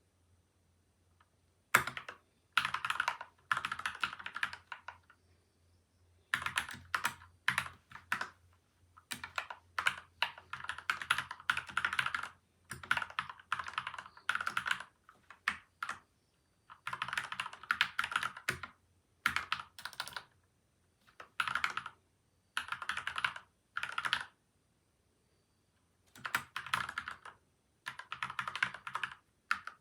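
Typing on a PCL87 mechanical keyboard with lubed Gateron and Outemu switches and tape-and-foam mods: quick runs of key clicks in bursts of a few seconds, separated by short pauses.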